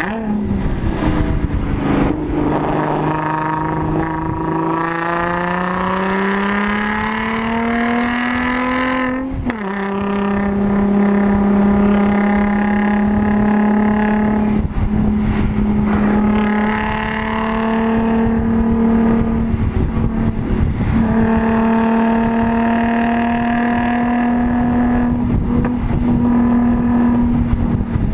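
Audi S4's supercharged 3.0-litre V6, breathing through an AWE Touring exhaust, pulling hard at full throttle and heard from inside the cabin. The engine note climbs steadily for about nine seconds, drops sharply at an upshift, then pulls on at a steadier, slowly rising pitch with a couple of brief lifts.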